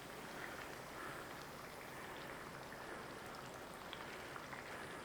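Breaded chicken cutlet frying in hot oil in a pan: a faint, steady sizzle with fine crackles.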